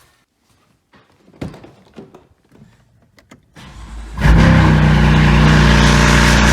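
A few clicks and knocks, then the BMW E92 M3's S65 4.0-litre V8 is cranked and fires about four seconds in on a cold start, settling into a loud, steady fast idle.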